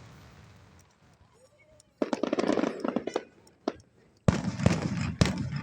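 Aerial fireworks going off: a dense crackling burst about two seconds in, then a sharp loud bang near the end followed by a few more cracks.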